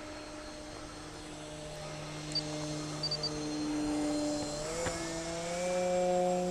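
Radio-controlled foam-board biplane in flight, its motor and propeller giving a steady hum; the pitch steps up and grows louder about five seconds in.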